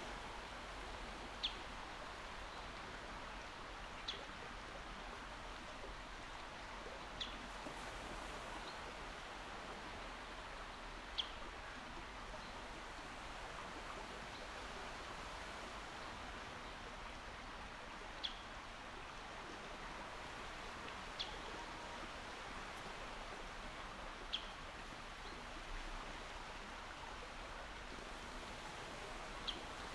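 Calm sea washing in a steady, faint hiss without distinct breaking waves. A bird gives a short, high call every few seconds, about eight times.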